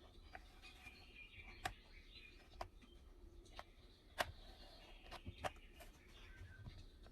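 Faint birdsong, soft chirping, with about seven sharp pops or clicks at irregular intervals; the loudest comes about four seconds in, with a quick cluster of three just after five seconds.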